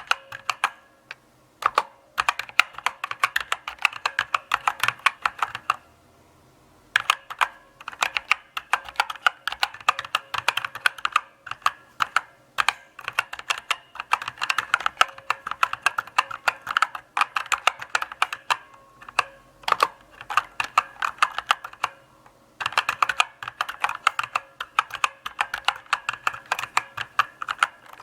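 Typing on a mechanical keyboard: runs of sharp key clicks, several a second, broken by short pauses.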